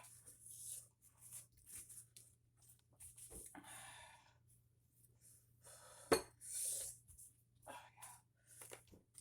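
Close-miked eating noises: chewing and wet mouth sounds, with short hissing breaths and a sharp click about six seconds in.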